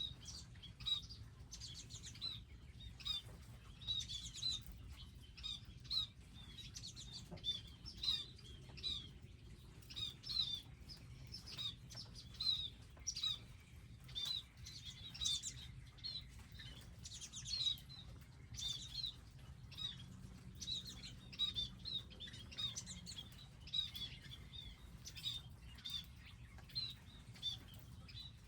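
Small wild birds chirping in short, high notes over and over, with brief flutters of wingbeats as birds come and go.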